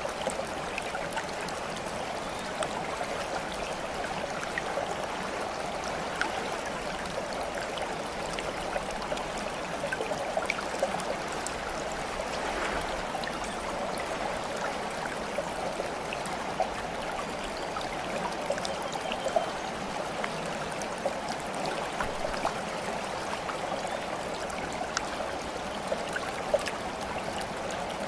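Water flowing and trickling steadily, like a small stream, with scattered small drips and splashes over it.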